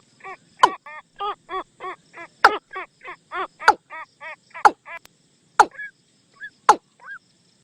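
Watercock decoy call: a rapid run of hollow, clucking notes, about three a second, with sharp clicks among them. The run breaks off about five seconds in, leaving a few scattered short notes and clicks.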